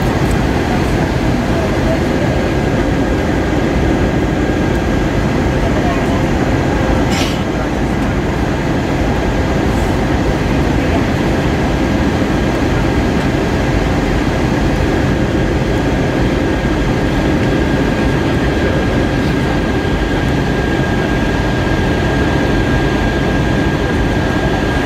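Steady cabin noise of an Airbus A320-232 in flight: a constant rush of air and engine noise with a steady hum and a faint higher tone. A brief click about seven seconds in.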